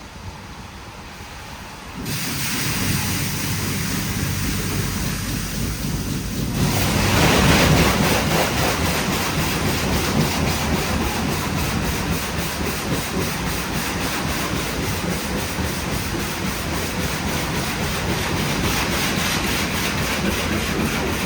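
WashTec SoftCare² Pro rollover car wash switching to its 70-bar side high-pressure spray with PowerJet. The water jets start suddenly about two seconds in and spray hard against the car, growing louder and hissier a few seconds later, then keep up a steady noise.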